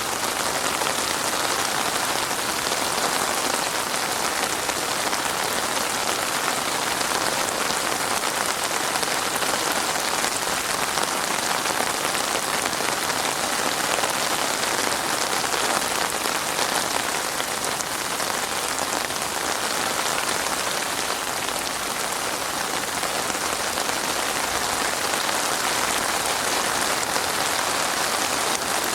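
Heavy rain falling steadily, a dense even patter without thunder.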